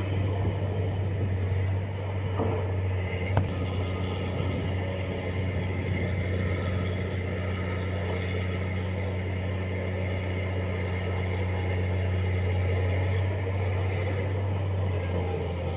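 Excavator engine running at a steady speed with an even low hum, and one sharp click about three and a half seconds in.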